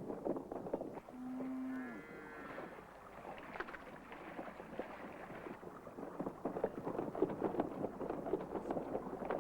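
A cow from a herd of zebu cattle gives one drawn-out moo about a second in, lasting about a second and a half. Scattered knocks and clatter from the herd's hooves on the track run underneath.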